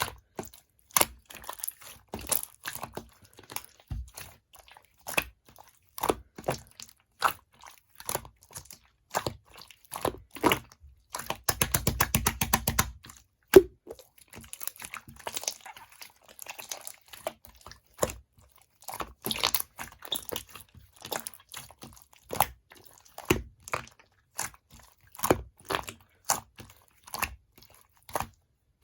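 Clear slime mixed with diamond-painting beads being pressed and poked, giving crunchy clicks and pops. About eleven seconds in there is a fast run of rapid clicks lasting a couple of seconds.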